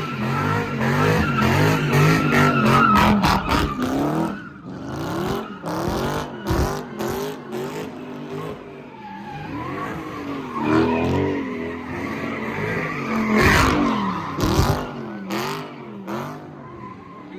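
A car's engine revving up and down hard while its tyres squeal and skid, as in donuts or a burnout. Sharp cracks come in quick runs through it.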